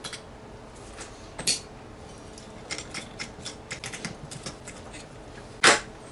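Small clicks and taps of a screwdriver and metal faucet parts being handled while the screw holding a faucet handle is taken out, with two louder clicks, one about a second and a half in and one near the end.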